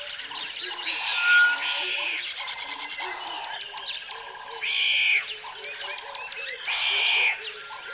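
A chorus of frogs croaking in a steady, repeating rhythm, with birds chirping over it. Two louder, higher calls come in the second half.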